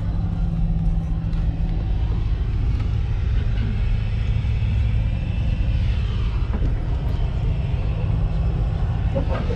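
Cessna 402's twin piston engines running, a steady droning rumble heard from inside the cockpit.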